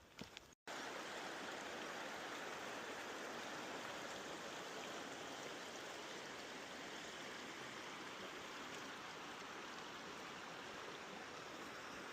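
Steady rush of a rainforest stream's flowing water, starting abruptly just over half a second in.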